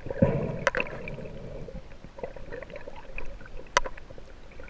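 Water sloshing and bubbling around a freediver's camera, with a few sharp clicks.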